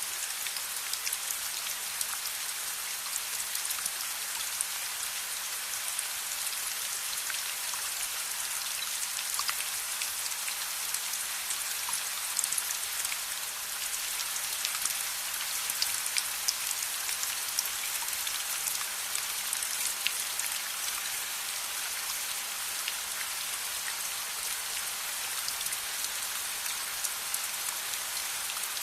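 Steady rain falling, a dense hiss scattered with many sharp, irregular drop clicks.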